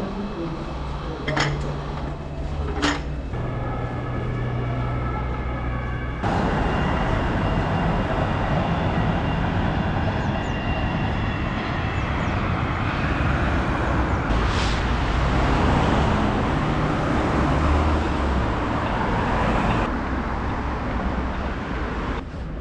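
Train and railway ambience in edited cuts: a steady hum with two sharp clicks, then from about six seconds in a louder, even rushing noise that cuts off abruptly near the end.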